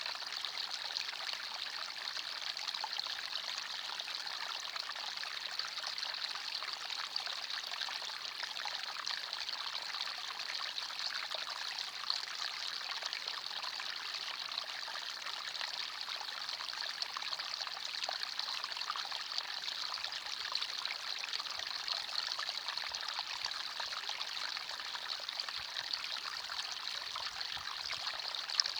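Small forest stream running steadily, water trickling and burbling over stones.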